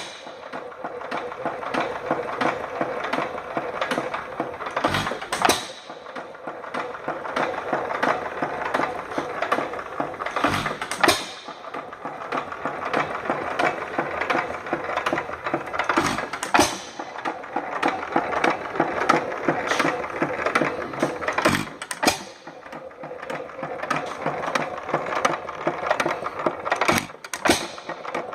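Economy 2 1/2 hp single-cylinder hit-and-miss engine running: a steady fast ticking as it coasts, broken by a loud firing stroke about every five to six seconds as the governor lets it fire.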